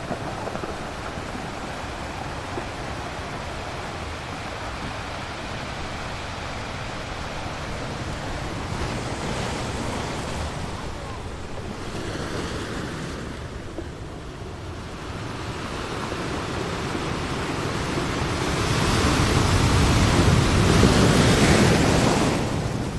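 A steady rushing noise, like surf or wind, that swells louder about eighteen seconds in and eases slightly near the end.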